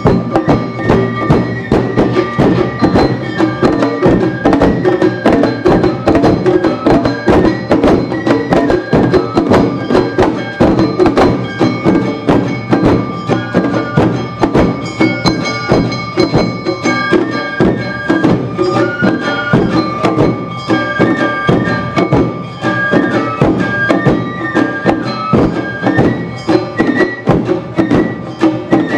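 Live Awa Odori dance music played by a festival band: a bamboo flute melody over a dense, driving beat of taiko drums and a hand-struck kane gong.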